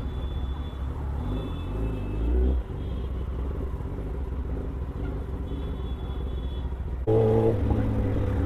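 Kawasaki Ninja ZX-10R's inline-four engine running steadily under way, a low drone that swells briefly about two seconds in, then gets suddenly louder near the end.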